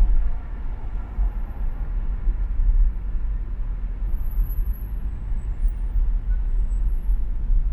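Steady low rumble of a car driving along an urban expressway: engine, tyre and traffic noise with no sudden events.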